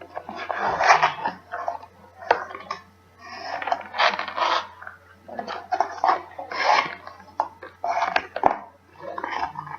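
A metal spoon scooping and scraping powdery baking soda, with sharp clinks as it knocks against the containers, in a string of short irregular scrapes.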